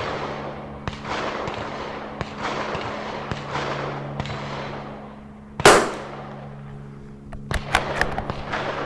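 .22 LR rifle shot about two-thirds of the way in, the loudest sound, followed by several metallic clicks from the bolt-action Tikka T1x being worked. Throughout, echoing gunshots come about once a second over a steady low hum.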